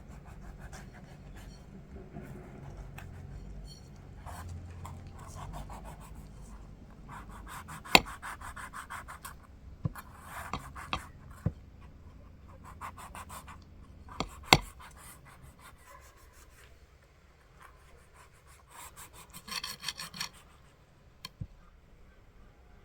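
Irregular scraping and rubbing with a few sharp knocks, the loudest about eight seconds in and again about fourteen seconds in.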